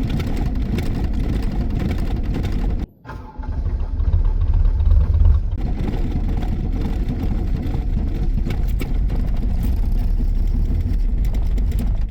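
1982 Volvo 240's D24 inline-six diesel being cranked over by the starter on a cold start well below freezing, with no block heater and after two glow-plug cycles, not yet running. The cranking stops briefly about three seconds in and then starts again, a little louder.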